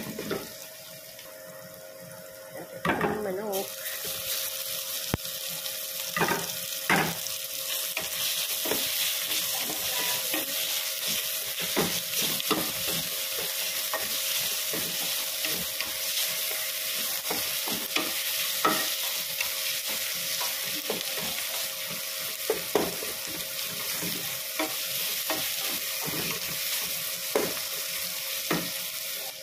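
Chopped onions sizzling as they sauté in an aluminium pot, with a wooden spoon stirring them in repeated scrapes and knocks against the pot. The sizzle grows louder about three and a half seconds in.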